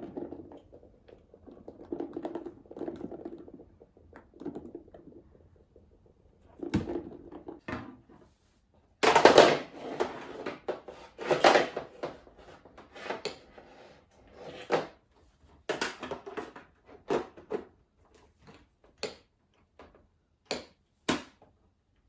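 Irregular plastic clicks and knocks of a Dreame D10 robot vacuum's dustbin being handled and pushed back into the robot. The loudest knocks come about nine seconds in, and sparser clicks follow.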